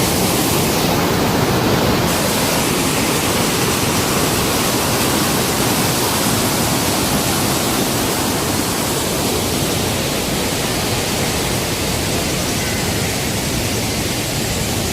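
Steady rushing of a waterfall heard close up, an even full-range water noise with no break.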